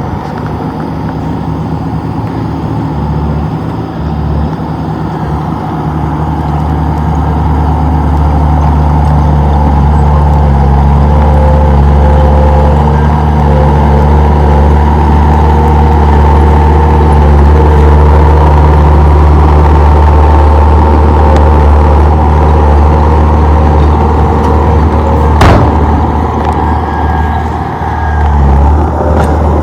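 Komatsu D31P bulldozer's diesel engine running under load, a steady drone that grows louder over the first several seconds. There is a single sharp knock about 25 seconds in.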